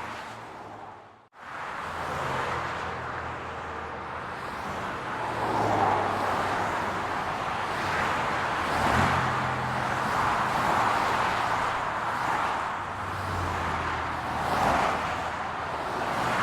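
Road traffic: cars driving past with engine hum and tyre noise, several of them swelling louder and fading. The sound drops out briefly about a second in.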